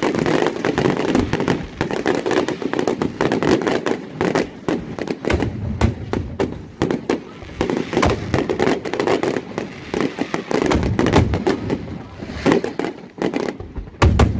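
Fireworks going off in a rapid, unbroken barrage of sharp cracks and bangs, with heavier deep booms at times, including a big one near the end.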